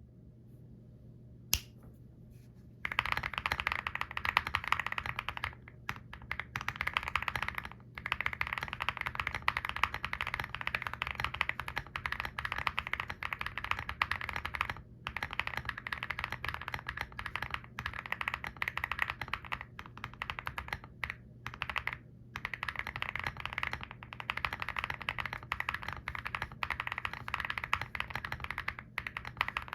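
Typing test on a WEIKAV Lucky65 mechanical keyboard with Vertex V1 switches: rapid, continuous key clacks with a few brief pauses. A single sharp click about a second and a half in comes before the typing starts in earnest at about three seconds.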